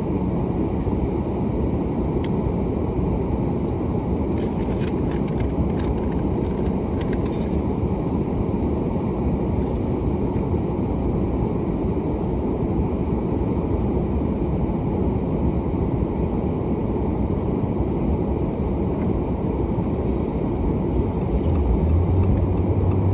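Vehicle engine idling, heard from inside the cab as a steady low running noise; a low steady hum joins near the end.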